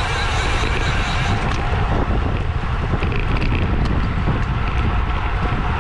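Heavy, steady wind rush buffeting the microphone of a camera riding on a bicycle at racing speed.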